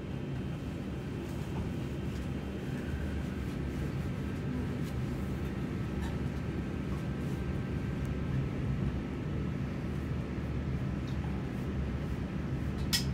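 Cabin noise of a double-deck electric passenger train under way: a steady low rumble from the wheels and running gear, with a faint hum. A single sharp click near the end.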